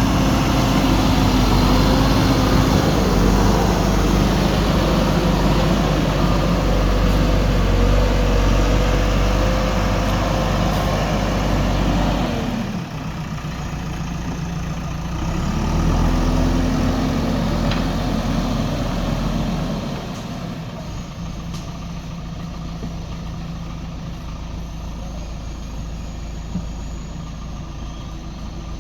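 JCB 3DX backhoe loader's diesel engine working under load. It drops in speed about twelve seconds in, picks up again briefly, then settles to a lower, steadier run for the last several seconds.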